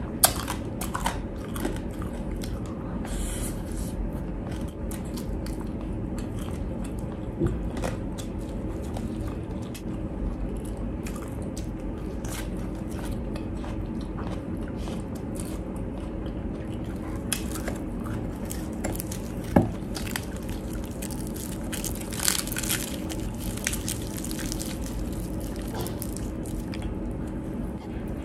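Close-up chewing and biting of crispy deep-fried pork, with scattered sharp crunches of crackling skin and wet chewing between them, over a steady low hum.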